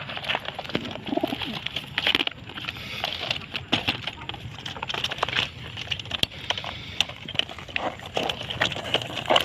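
Domestic pigeons cooing, with many scattered short clicks and taps throughout.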